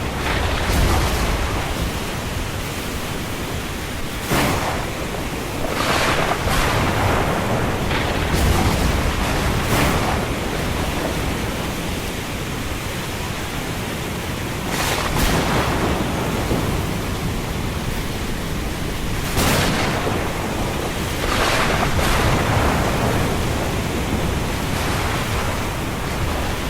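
Thunderstorm with wind and rain hissing steadily, broken every few seconds by sharp cracks of thunder.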